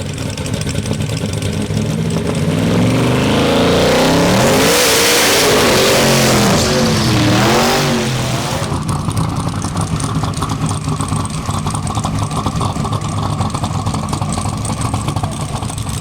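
Drag-racing vehicles making a pass at full throttle. The engines swell loud about two seconds in, their pitch rising and falling, then fall back to a steady engine rumble after about eight seconds.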